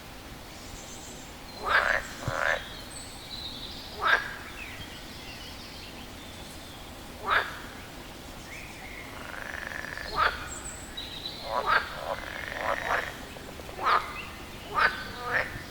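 A frog calling: about ten short croaks at irregular intervals, coming closer together in the second half.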